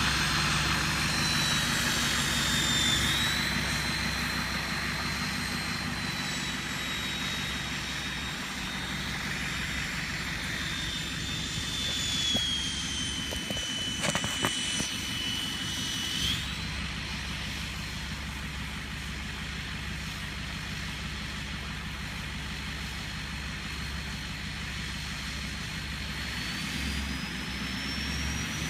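Ford turbo-diesel pickup engine running at idle with a high turbocharger whistle over its low rumble. The whistle holds a steady pitch, sags lower through the middle, jumps back up about halfway through, and climbs again near the end.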